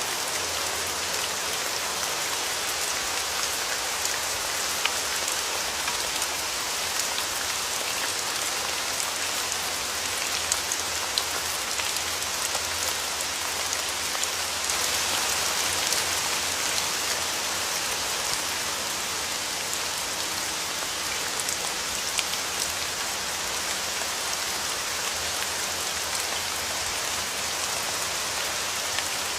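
Steady rain, with scattered sharper drops ticking through it and a slight swell about halfway through.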